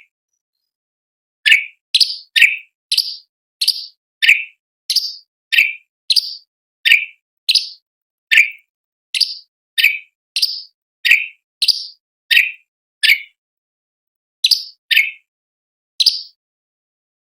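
Cucak cungkok (orange-bellied leafbird) calling a sharp, repeated note, each one dropping quickly in pitch, at about one and a half notes a second, with a short break near the end.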